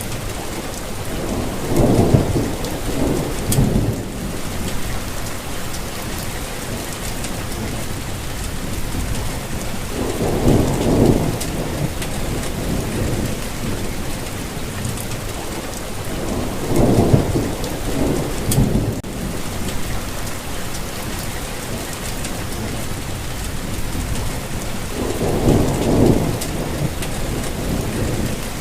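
Steady rainfall, an even hiss of rain on leaves and surfaces. Four low rumbles swell up and fade, each lasting a second or two, about every six to nine seconds.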